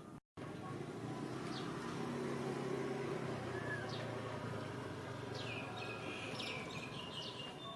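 A steady low engine-like hum with birds chirping over it, the chirps short and falling in pitch, most of them in the second half. The sound drops out briefly just after the start.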